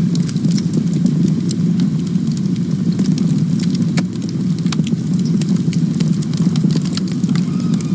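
Campfire burning, with many quick sharp crackles and pops over a steady low rumble of flame. A short faint whistle near the end is like gas hissing from the wood.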